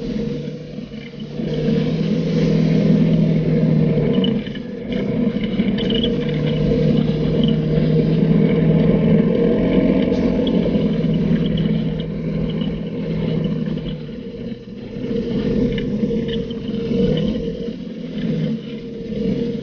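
Polaris RZR 570 side-by-side's single-cylinder engine running as it is driven along a dirt trail, the revs swelling and easing off several times, with light rattling from the machine.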